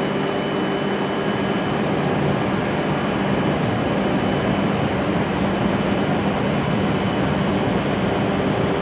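Steady hum of a stopped W7 series Shinkansen standing at the platform with its doors open, its air conditioning and onboard equipment running, with a faint high whine over the hum.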